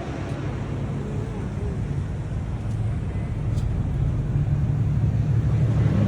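Car engine running with a steady low rumble, growing gradually louder.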